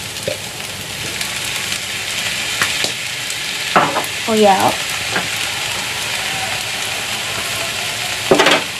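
Fried rice with shredded chicken sizzling in a hot frying pan: a steady frying hiss, with a few short knocks, the loudest near the end.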